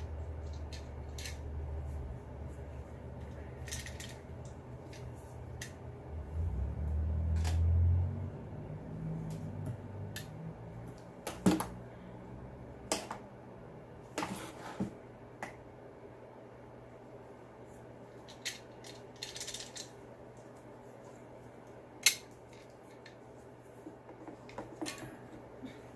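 Hands handling and fitting small plastic and metal parts of a leaf blower's muffler and shield: scattered clicks, taps and light clatter, with two sharper knocks. Under them a low hum, swelling into a louder low rumble for a couple of seconds early on.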